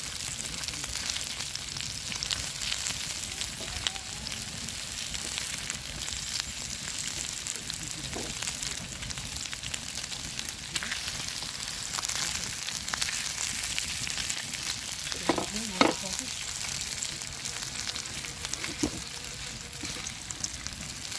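Steady sizzling and crackling from a campfire cooking fire, full of tiny pops. About fifteen seconds in, a brief faint voice-like sound.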